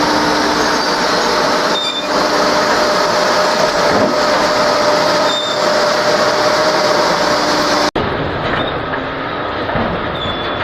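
Slow-moving open hopper cars of a work train rolling on the rails, towed by a hi-rail truck: a steady rolling noise with faint, thin wheel squeals every second or two. The sound breaks off sharply about eight seconds in and resumes a little quieter.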